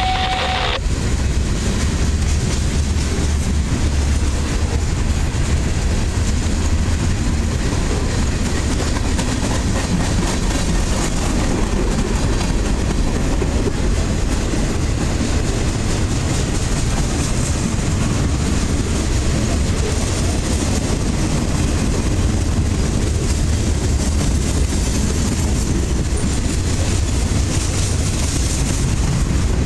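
Freight cars of a passing train rolling by: a steady rumble of steel wheels on the rails that holds evenly throughout. A brief steady tone ends under a second in.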